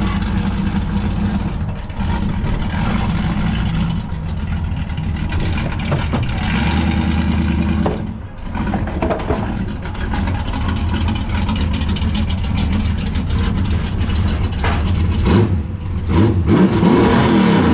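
Car engine running at low speed, with a brief drop about eight seconds in and a few light revs near the end.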